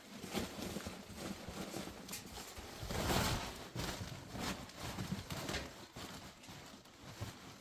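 A run of irregular knocks and thuds, with a louder rushing noise swelling about three seconds in.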